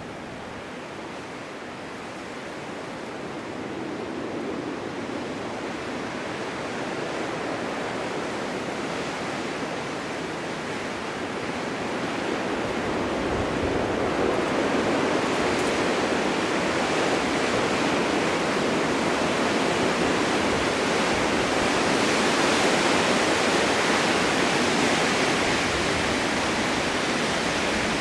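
Snowstorm wind blowing in a steady rushing hiss that builds gradually, growing louder through the first half and staying strong.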